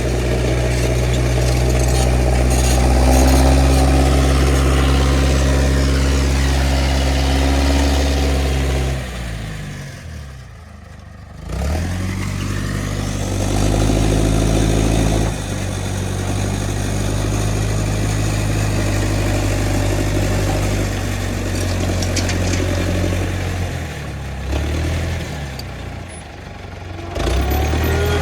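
Engine of an International 125 crawler loader running steadily under work, its pitch sagging and the sound falling away about nine seconds in, then picking back up and running steadily again.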